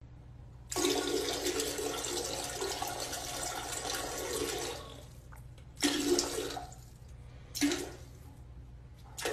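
Water rushing into a toilet bowl for about four seconds, then dying away. Three short bursts of sound follow, about a second and a half apart.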